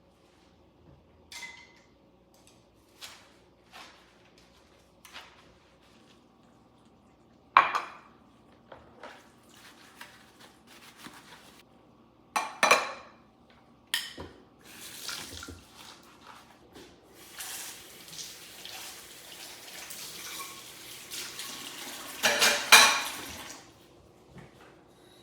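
Dishes being washed by hand at a sink. Scattered clinks and knocks of crockery and cutlery come first. Then, about halfway through, the tap runs for several seconds, with a louder clatter of dishes near the end.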